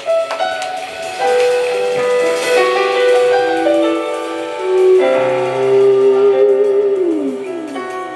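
Slow keyboard music, piano-like held notes and chords, with one note sliding down near the end.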